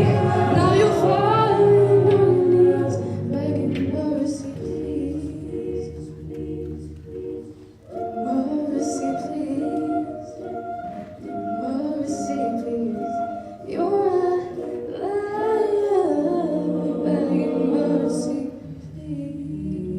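Vocal ensemble singing a cappella: several voices holding and moving through chords without instruments, with a brief drop in level before the singing picks up again.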